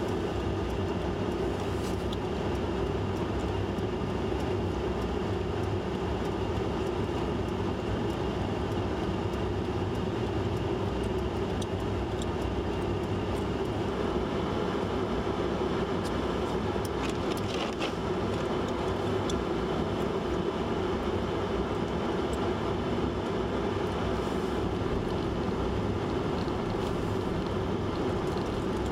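A vehicle running steadily: a constant low engine rumble with an even hum. A few faint clicks come in just past the middle.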